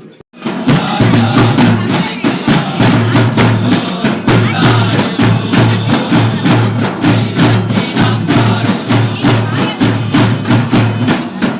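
Loud festive percussion music: drums beaten in a fast, steady rhythm with tambourine-like jingles, starting suddenly just after the beginning.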